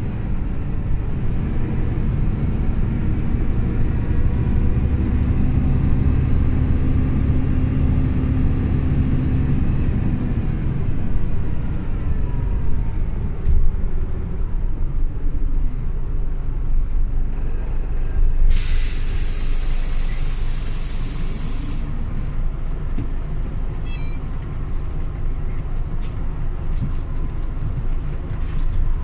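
Scania OmniLink CL94UB city bus's diesel engine running, pulling strongly for about the first ten seconds and then easing off. About two-thirds of the way through, the bus's compressed-air system lets out a loud hiss lasting about three seconds.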